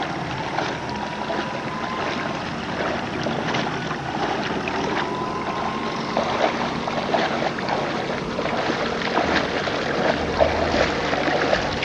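Water splashing and sloshing steadily as a person wades through shallow sea water towing a kayak.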